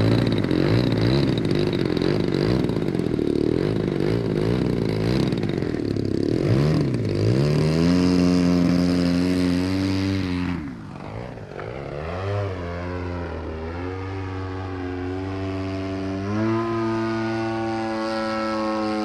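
DLE-35RA two-stroke gasoline engine driving the propeller of an RC plane. It runs loud and rough at high throttle, settles into a steady tone about seven seconds in, and falls sharply in pitch and loudness about ten and a half seconds in. It then runs lower and picks up in pitch again about sixteen and a half seconds in.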